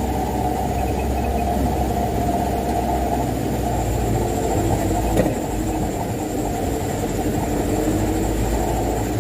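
Mitsubishi Canter dump truck's four-cylinder diesel engine running steadily under way, hauling a heavy load of wet sand, with road rumble and one short knock about five seconds in.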